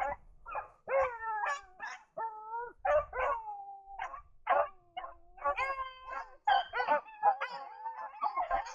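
Pack of beagles baying in long, drawn-out howls, several voices overlapping, the chorus thickening after about five seconds: hounds in full cry on a rabbit's trail.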